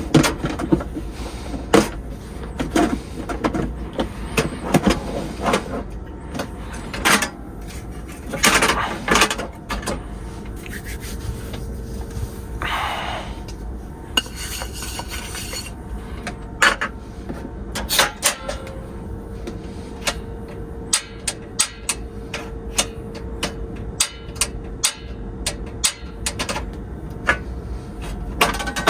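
Rubbing and scraping with scattered clicks and knocks of things being handled. A steady hum comes in about halfway through.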